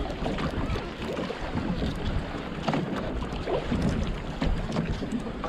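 Wind buffeting the microphone over water noise around a small fishing boat, with a few light knocks.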